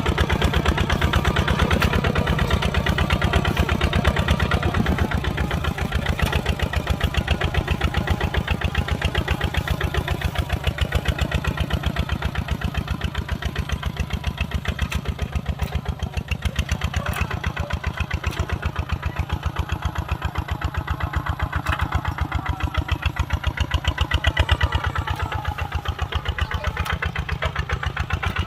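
Kubota RT140 single-cylinder diesel engine running steadily with a fast, even thudding beat.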